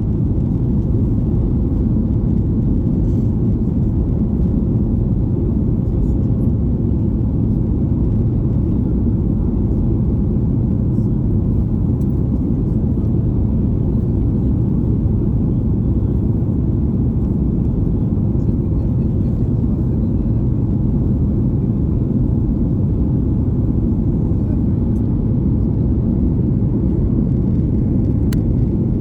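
Steady low rumble inside the cabin of a Boeing 737 MAX 8 in flight: its CFM LEAP-1B engines and the airflow past the fuselage, even and unchanging.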